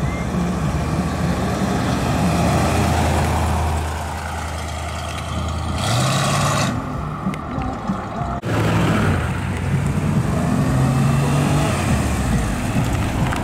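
A large classic American car driving off with a deep, low engine note that rises in pitch about six seconds in as it accelerates away. After a sudden cut, a classic Mini's small four-cylinder engine is heard approaching.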